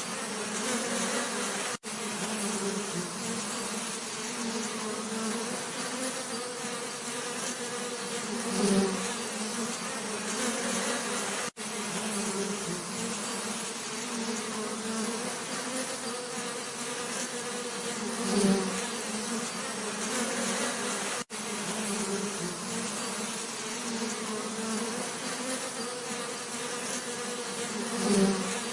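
Bees buzzing steadily in a continuous drone. About every ten seconds the buzz swells louder, as of a bee passing close, and three times the sound cuts out for a split second.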